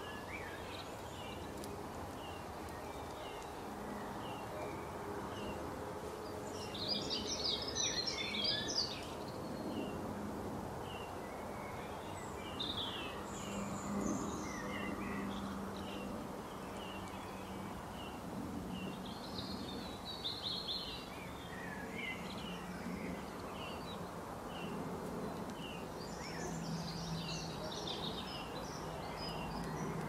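Birds calling: a short chirp repeats steadily, about three every two seconds, with louder bursts of high twittering several times, over a steady low background hum.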